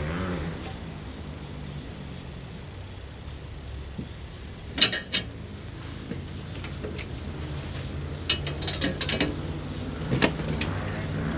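Scattered metallic clicks and clanks as a Craftsman riding mower is handled and moved out of a shed: a pair about five seconds in, a quick cluster around eight to nine seconds, and one more near ten seconds, over a steady low hum.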